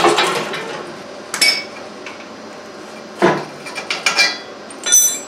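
Metal clanking and clinking: about five separate knocks, several leaving a brief high metallic ring.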